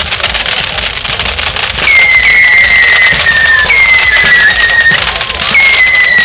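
Fireworks going off: a dense crackling hiss, then from about two seconds in three long whistling fireworks, each a high whistle that slides slowly down in pitch.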